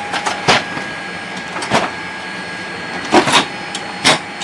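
Boeing 787-8 cabin door being closed by hand: a series of sharp clunks and clicks from the door and its latching mechanism over the steady hum of the cabin air.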